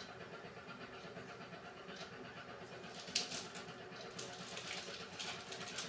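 Beko WMY81283LMB2 washing machine running a hand wash cycle: a steady hum with short swishing sounds coming and going from about three seconds in, the sharpest one just after three seconds.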